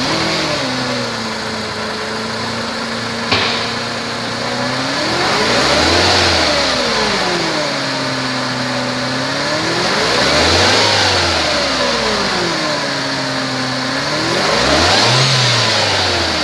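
2002 Mercedes-Benz C230 Kompressor's supercharged four-cylinder engine idling just after start-up, then revved three times, each rev rising and falling smoothly over two to three seconds. One sharp click a little over three seconds in.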